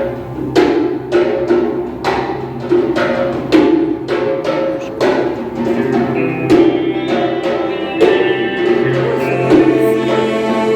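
Live band playing the instrumental introduction to a song, with pitched notes struck on a regular beat about twice a second.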